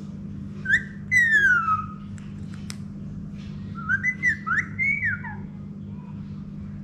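Indian ringneck parakeet whistling: a quick rising note, then a long falling whistle, and a few seconds later a rapid run of short rising and falling whistles, over a steady low hum.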